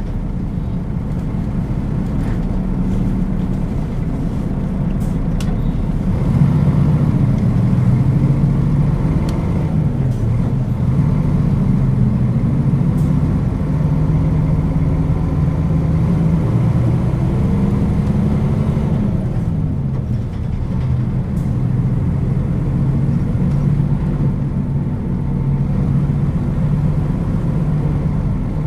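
Diesel engine of a Nissan Diesel KL-UA452KAN city bus, heard from inside the bus as it drives. The engine pitch climbs and drops back several times as it pulls away and changes gear, over a steady rumble and road noise, with a few faint rattles.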